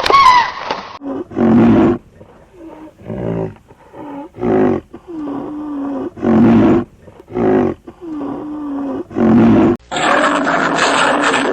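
A big cat roaring in a run of about eight short calls, each a second or less with short gaps between them. Near the end it cuts to a different, continuous animal sound.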